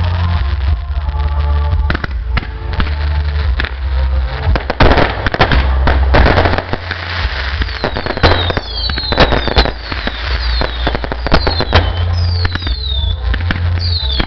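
Fireworks display going off in quick succession: many sharp bangs and crackling, with a dense burst of crackle about five seconds in. From about eight seconds in, repeated whistles fall in pitch, over a steady low rumble.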